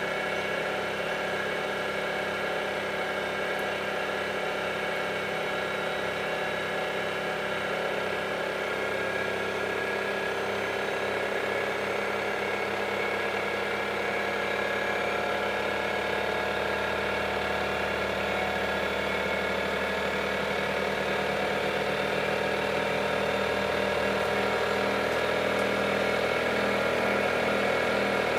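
Samsung washing machine's drum motor running with a steady whir, its pitch rising slowly and its level growing gradually as the drum speeds up.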